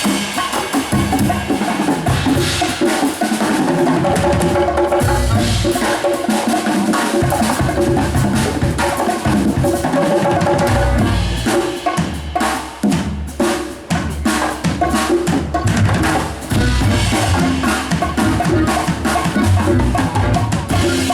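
A live band playing an instrumental passage with the drum kit to the fore. About halfway through there is a stretch of sharp, separate drum hits with short gaps before the full band picks up again.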